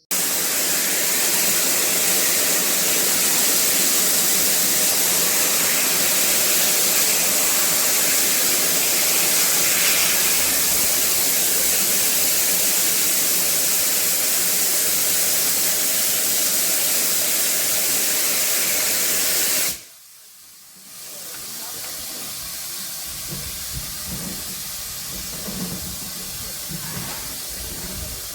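Steam locomotive letting off steam: a loud, steady hiss that lasts about twenty seconds and stops abruptly, followed by a quieter hiss with a few low knocks.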